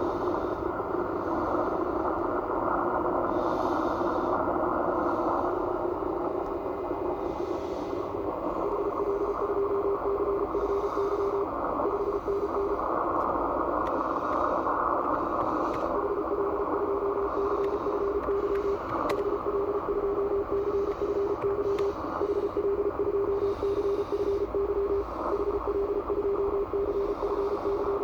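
Morse code (CW) on the 18 MHz amateur band heard through an IC-7600 transceiver's receiver: a single pitched tone keyed on and off in dots and dashes over a steady hiss of band noise. The keying is faint at first and comes in strong and almost unbroken from about a third of the way in.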